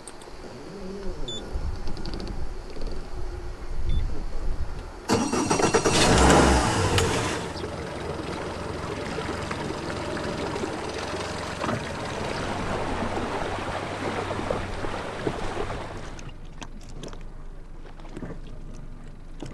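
Outboard motor on an inflatable boat starting about five seconds in, loud for a couple of seconds, then running steadily; it gets quieter near the end.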